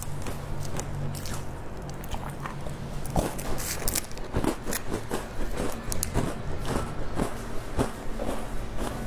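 Close-up chewing of crisp biscuits, with many sharp irregular crunches.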